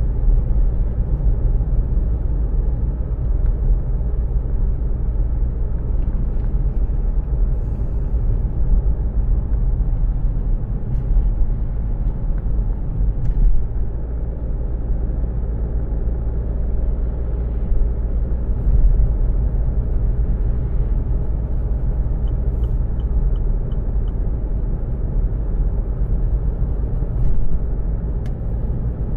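Steady low rumble of a car heard from inside the cabin, engine and road noise, with a few faint clicks.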